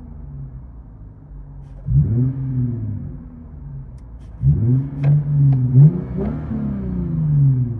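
Lexus IS 250's 2.5L V6 revved twice through its loud aftermarket exhaust, heard from inside the cabin. A quick blip about two seconds in is followed by a longer rev that is held briefly with a few sharp cracks before it falls back toward idle.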